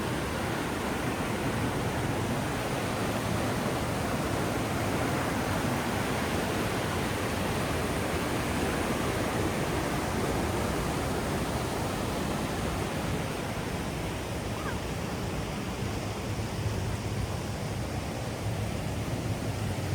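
Waterfall rushing: a steady, even roar of falling water with no let-up.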